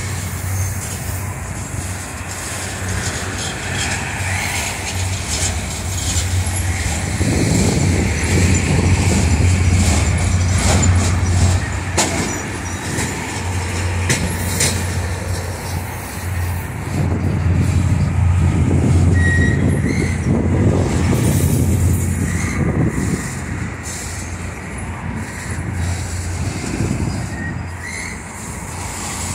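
Freight train of loaded flatcars rolling past, a steady rumble and clatter of steel wheels on the rails that swells louder twice, with a few sharp clicks partway through.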